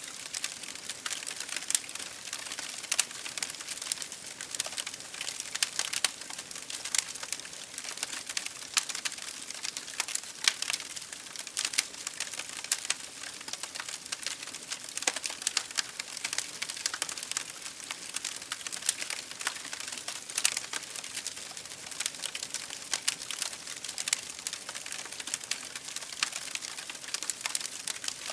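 Wood fire in an open fireplace crackling steadily, with many sharp irregular pops and snaps over a soft hiss.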